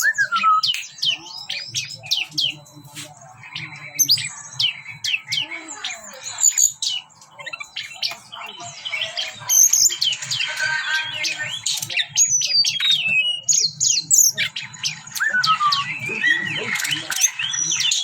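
Teledekan gunung songbird singing a fast, varied run of chirps, whistled glides and squawky notes, over a faint steady low hum.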